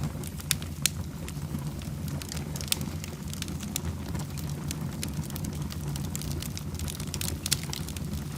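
Wood fire burning in a fireplace, crackling with frequent sharp pops over a steady low rumble of the flames.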